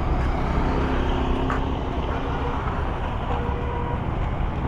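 Busy street traffic: a steady rumble of passing motor vehicles.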